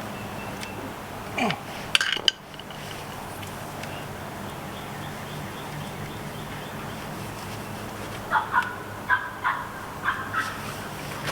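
A bird, likely domestic fowl, calling: a single falling call about a second and a half in, then a string of short, uneven calls near the end. A couple of sharp clicks come about two seconds in.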